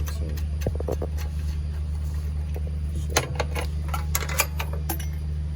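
Spanner clinking on metal as generator engine-mounting bolts are loosened: a few short clicks about a second in, then quick runs of clinks between three and five seconds in, over a steady low hum.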